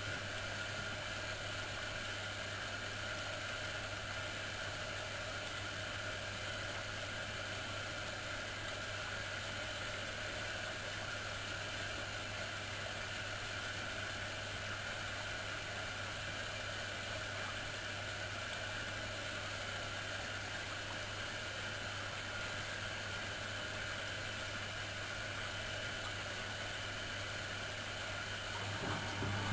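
Miele Professional WS 5105-C washing machine running with a steady whir and a constant low hum. Near the end the hum grows louder.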